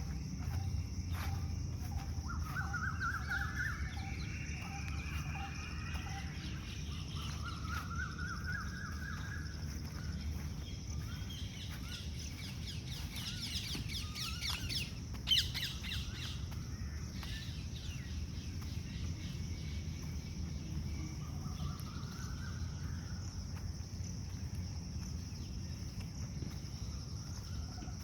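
Birds singing and calling in a park, in several short chirping phrases, over a steady high insect buzz and a low rumble. A single sharp click comes about fifteen seconds in.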